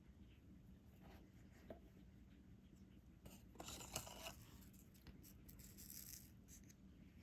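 Faint taps and rustles of a diamond painting pen picking up resin drills and pressing them onto the sticky canvas, busiest about three to four seconds in and again around six seconds.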